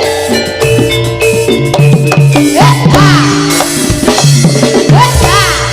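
Live Javanese turonggo (jaranan) horse-dance music without singing: a drum-led ensemble keeps a busy beat under sustained pitched tones, with sliding notes that swoop up and fall back every second or two.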